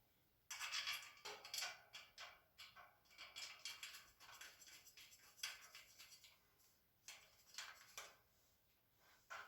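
Faint, irregular clicks, taps and scraping of metal shelf bars and screws being handled and fastened during assembly.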